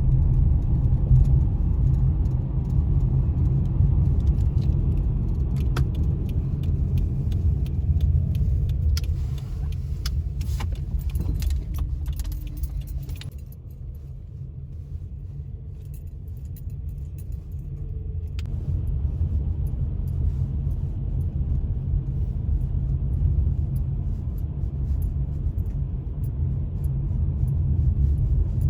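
Car driving: a steady low road rumble, easing for a few seconds about midway, with light rattling clicks over it.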